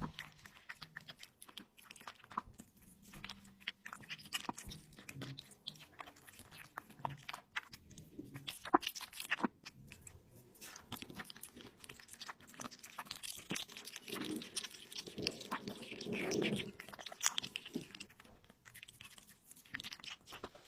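Close-miked eating: a person biting and chewing meat, with a stream of crunchy, sticky mouth clicks. The chewing gets denser and louder about three-quarters of the way through, and there is one sharp loud bite a little before halfway.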